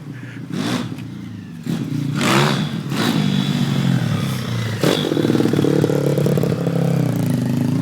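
Pit bike's small single-cylinder four-stroke engine running and being revved. It runs quietly at first, then picks up with rising revs about two seconds in, and holds higher revs from about five seconds in.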